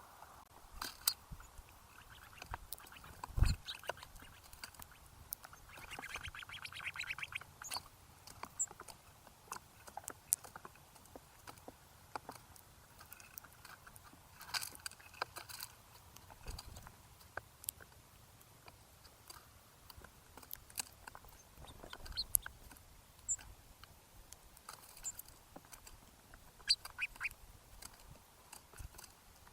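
Birds at a backyard feeder: scattered short clicks and taps, a loud thump about three and a half seconds in, a rapid buzzy call lasting about a second and a half a few seconds later, and a few short high chirps.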